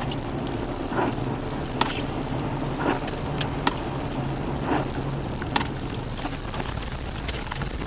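A car driving: a steady low engine and road hum, with scattered sharp clicks about once a second.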